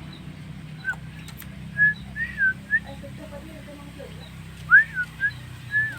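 Javan myna (jalak kebo) singing a string of short, clear whistled notes, some arching up then down, loudest about two seconds in and again near the end, over a steady low hum.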